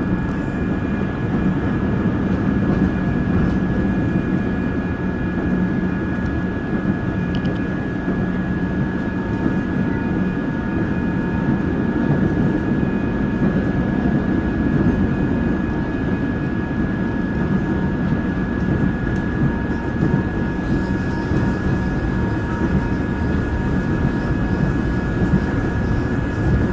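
Seoul Subway Line 1 electric train running between stations: a steady rumble of wheels on rail, with a thin, steady high tone above it.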